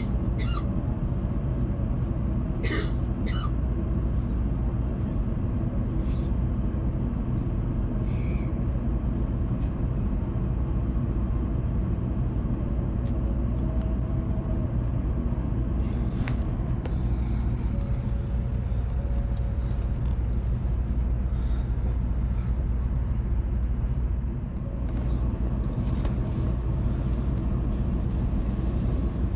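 Steady low hum and rumble inside a Shinkansen passenger car, with a few faint clicks in the first few seconds.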